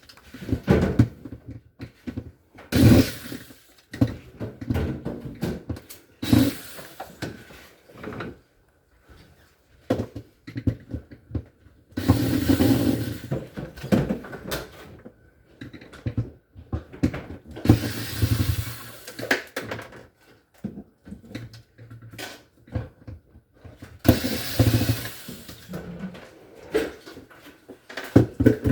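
Clunks, knocks and scraping of refrigerator parts being handled and taken out during a repair, with several noisy bursts of a second or two each.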